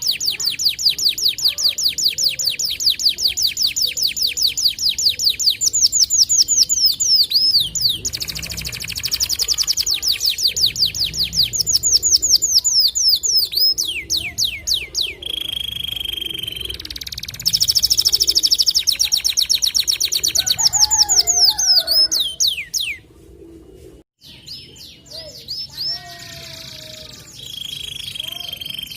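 White canary singing long, rapid trills of evenly repeated high notes, about eight a second, in runs lasting several seconds and broken by short pauses. The song cuts out briefly about three-quarters of the way through.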